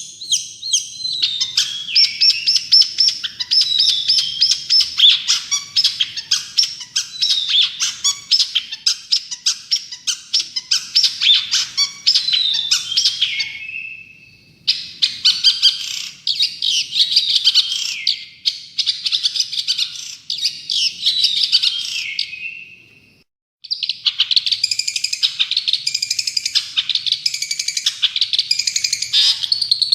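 Long-tailed shrike (cendet) singing a fast, chattering song of rapid high notes and short glides. The song breaks off briefly about halfway through and again about three-quarters of the way in.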